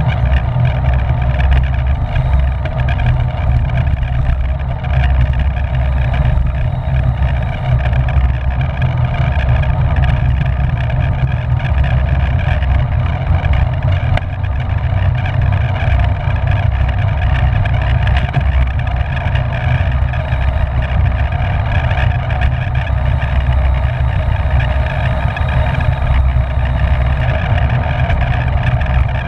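Wind rushing over the microphone of a camera on a moving bicycle, a steady heavy low rumble throughout.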